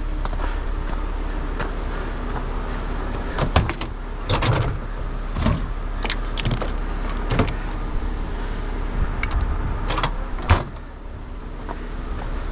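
Heavy truck engine idling steadily, with a scatter of short sharp metal clanks and knocks as rigging is handled; the loudest knock comes near the end.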